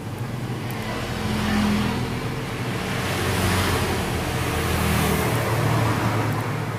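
Small engine running with a steady low hum, while a rushing noise swells up and fades away over a few seconds.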